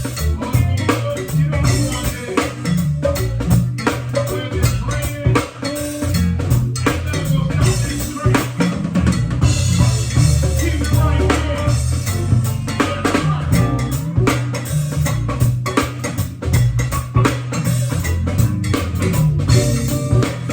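A band playing, with a full drum kit (snare and bass drum) over bass guitar and guitar.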